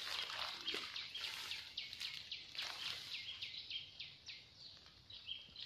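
Forest birds chirping in a rapid run of short, high calls that sweep downward, several a second, with a few brief level notes near the end. Light rustling of leafy undergrowth sounds under the calls.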